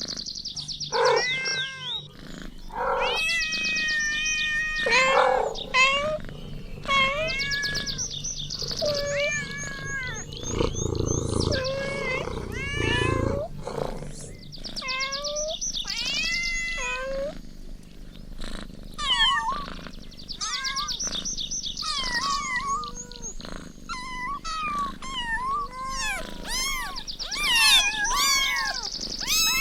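Several kittens meowing over and over, high-pitched short calls that often overlap one another. A low rumbling noise sits under them for a few seconds near the middle.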